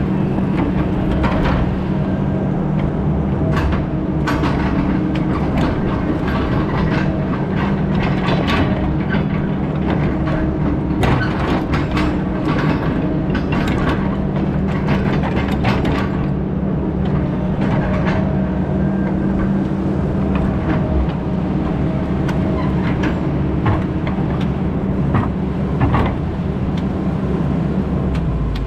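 Heavy diesel engine of a logging machine running steadily under load, with frequent metal clanks and knocks throughout.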